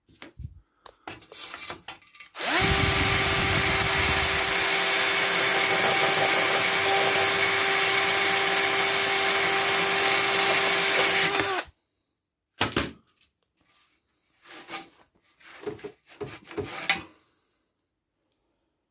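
A small handheld power tool starts about two and a half seconds in and runs at one steady speed for about nine seconds, then stops suddenly. Short scraping and handling noises come before it, and a few brief clatters follow.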